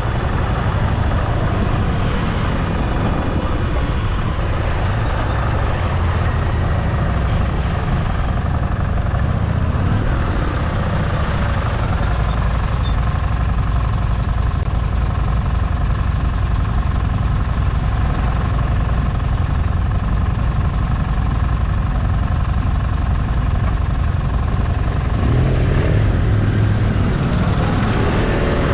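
Motorcycle engine running steadily under way, its low rumble swelling about 25 seconds in.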